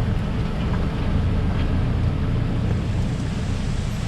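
Off-road 4x4's engine running at low revs, a steady low rumble mixed with wind noise on the microphone.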